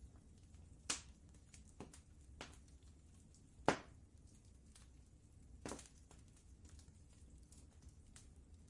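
Wood fire crackling in a fireplace: scattered small pops with a few louder cracks, the loudest a little past three and a half seconds in, over a low steady rumble.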